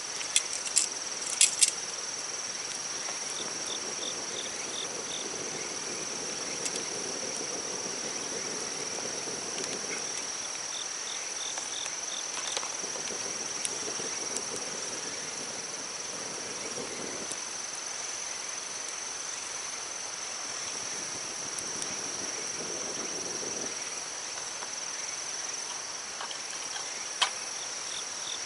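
Insects chirring steadily at a high pitch, with a softer pulsing call repeating now and then over it. A few sharp clicks in the first two seconds.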